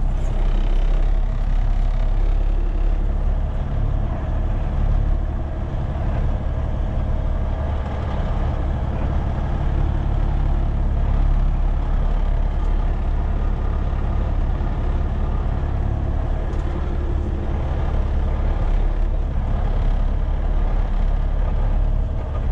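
Heavy tow truck's diesel engine running steadily, heard from inside the cab.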